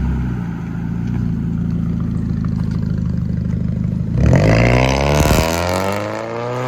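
2014 Ford Fusion's 2.5-litre four-cylinder engine with muffler and resonator deleted, idling steadily. About four seconds in it is revved once: the pitch jumps sharply, then falls slowly back toward idle.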